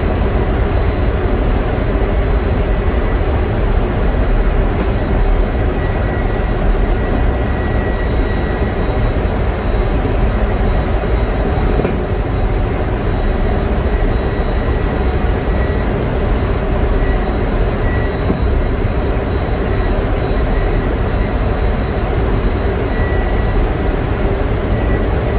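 Large diesel generator engine running: a loud, steady drone with faint steady whines above it.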